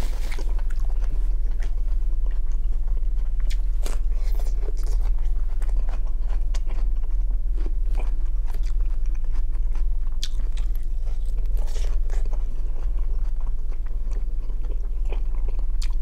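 Close-miked chewing and mouth sounds of a man eating grilled shashlik meat: scattered wet smacks and small clicks over a steady low hum.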